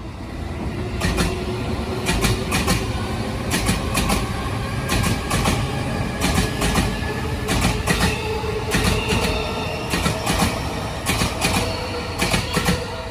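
JR Keiyo Line electric commuter train running close past on elevated track: a steady rumble and whine, with irregular clickety-clack of its wheels over the rail joints. It grows loud about a second in.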